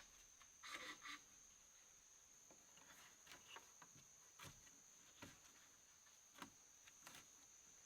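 Faint, steady, high-pitched insect trill, likely crickets, with scattered soft rustles and light taps, the clearest about a second in.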